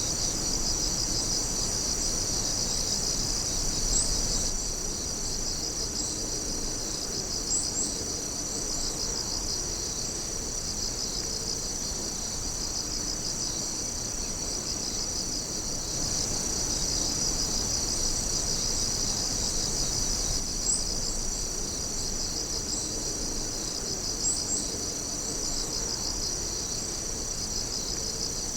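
Chorus of night insects trilling: a steady high trill with a pulsing, rapidly beating trill beneath it, and a few brief sharper chirps scattered through.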